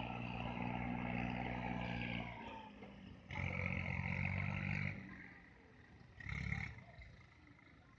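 Tractor engines running and revving: a steady run that dies away about two and a half seconds in, a louder rev of about a second and a half shortly after, and a brief burst around six seconds.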